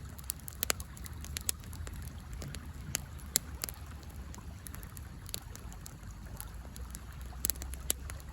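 Wood fire crackling and popping with sharp, irregular snaps, the loudest about three and a half seconds in, over the steady low rush of a river.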